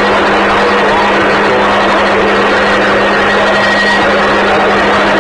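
Scanner radio static: a loud, steady hiss from an open channel with no clear voice, over a constant low hum.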